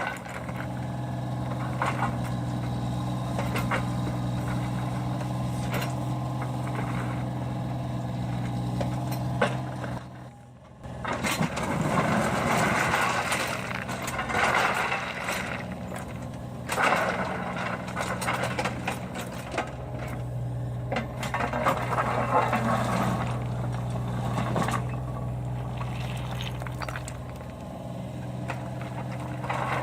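A compact excavator's diesel engine runs steadily, with louder noisy stretches of machine work over it. The sound drops away briefly about ten seconds in.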